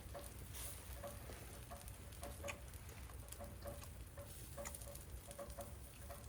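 Raindrops dripping and pattering at an irregular pace: faint soft ticks, a few a second, over a low steady hum.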